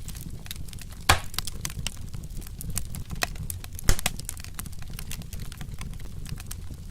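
Wood fire crackling, a dense run of small snaps over a low steady rumble, with two sharper pops, one about a second in and one near four seconds in.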